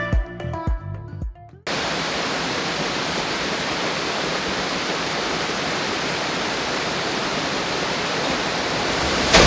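Electronic background music with a beat for the first second and a half, then a sudden cut to the steady, even rush of a waterfall pouring into a pool. A short click comes near the end.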